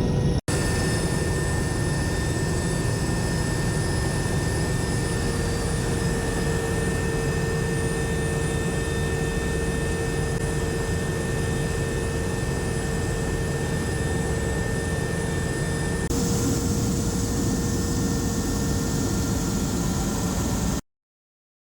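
Steady drone of an aircraft's turbine engines with a constant whine. There is a brief dropout about half a second in, the sound shifts near the end, and then it cuts off suddenly.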